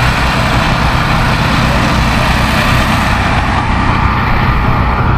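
A motor vehicle engine running steadily, a constant low hum with an even rush of noise over it.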